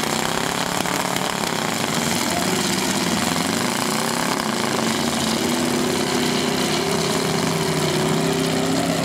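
Demolition derby car engines running and revving. Their pitch rises and falls in the first second or two, then one engine holds a steady note from about halfway.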